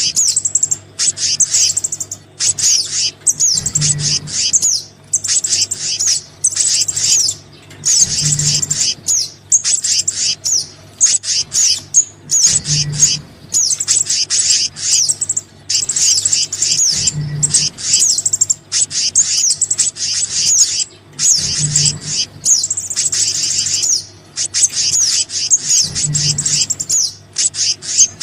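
Bird-lure recording of small birds' calls, the sogon and black-naped monarch (kehicap) combined: dense, rapid high-pitched chirps and trills that repeat as a loop about every four seconds.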